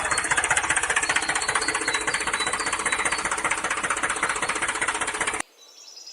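Small electric motor of a homemade miniature model running with a fast, even buzzing clatter, cutting off suddenly about five seconds in.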